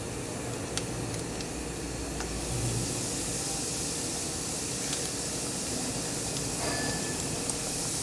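Breaded pork balls deep-frying in very hot oil: a steady sizzling hiss with a few light ticks, growing louder about two and a half seconds in.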